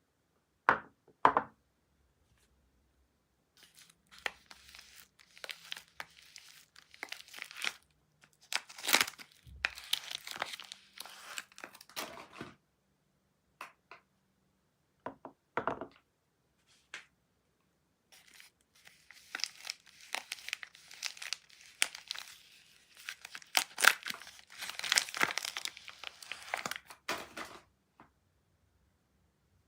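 Soap wrapping torn and crinkled open by hand, in two long stretches of crackling, with a couple of sharp clicks about a second in and a single snap in the lull between them.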